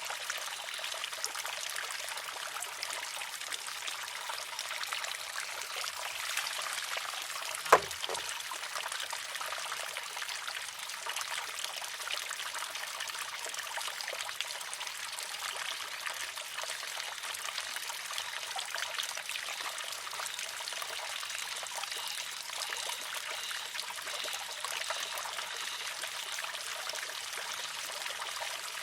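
Water trickling steadily into a wooden shishi-odoshi. Once, about eight seconds in, a single sharp clack as the pivoting arm tips and strikes its rock.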